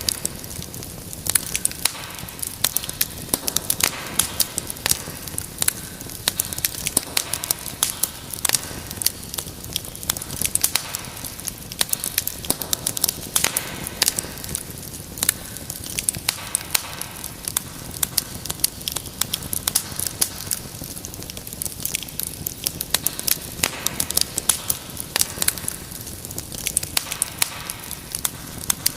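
Wood fire crackling in a fireplace: dense, irregular pops and snaps over a steady hiss of burning.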